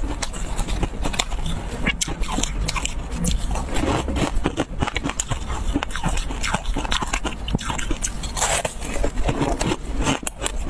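Close-miked crunching and chewing of a crispy tartary buckwheat snack: many quick crackly bites and crunches one after another, with fingers scraping through the crumbs in the bowl.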